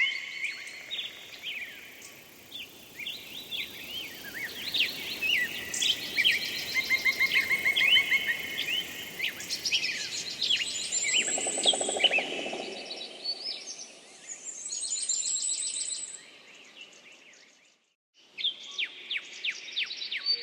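Mixed songbird chorus: several birds chirping, trilling and calling over one another with fast rapid-fire notes. The sound breaks off briefly near the end and a new stretch of chirping calls starts.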